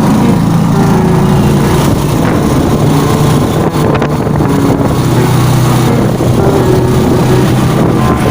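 A motor vehicle's engine running steadily and loud, its low hum shifting a little in pitch a couple of times.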